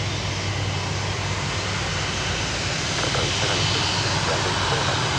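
Airliner engines running with a steady roar and a low hum, growing a little louder about three seconds in.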